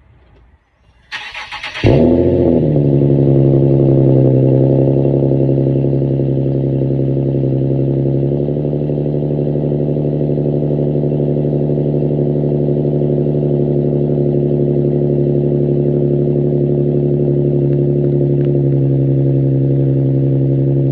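Infiniti G37's 3.7-litre V6 with the mufflers deleted, cold-started: the starter cranks briefly, the engine catches about two seconds in and settles into a loud, steady cold idle that eases down a little around eight seconds in.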